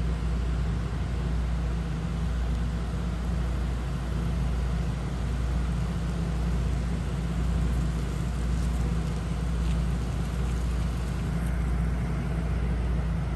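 Steady low rumble of a motor vehicle running nearby, unchanging throughout.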